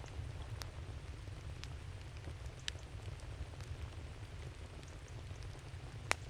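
Wood campfire crackling, with scattered sharp pops and one louder pop near the end, over a steady low rumble.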